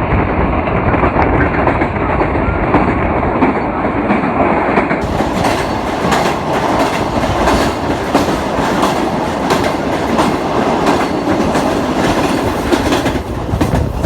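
Pakistan Railways Green Line passenger train running on the track, a loud steady rumble with the wheels clattering over the rails. About five seconds in it turns brighter, with a rapid run of sharp clicks.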